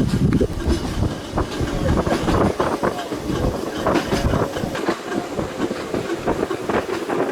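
Narrow-gauge tram running on its rails: a steady rumble with irregular clicks and clatter from the wheels over the track.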